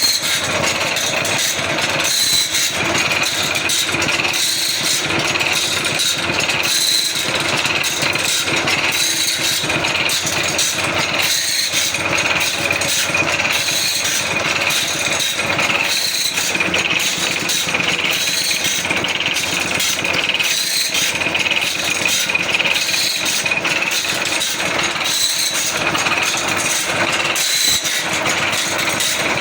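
Automatic band saw blade sharpening machine running: a steady machine drone with a high whine and many short ticks as the grinding wheel works along the blade's teeth.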